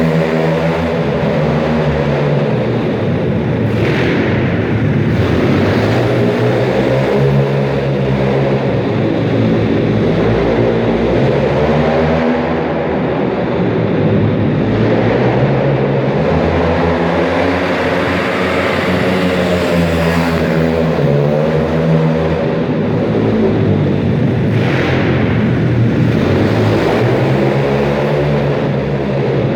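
Pit bike engine running hard, its pitch rising and falling again and again as the rider accelerates and backs off.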